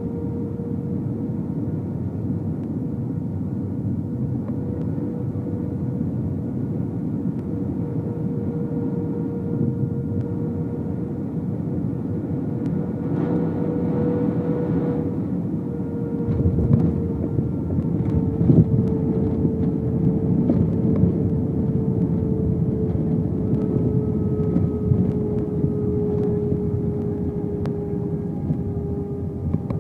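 Airbus A319 cabin noise: the jet engines' steady hum, with a held tone that slowly falls in pitch over a wash of airflow noise. About halfway through, a lower rumble grows louder, with a few bumps and knocks.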